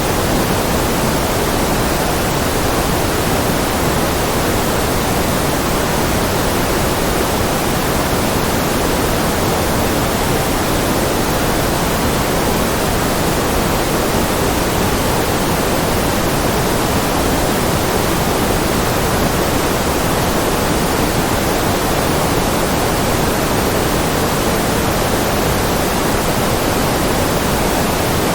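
Steady white-noise track, even and unchanging throughout.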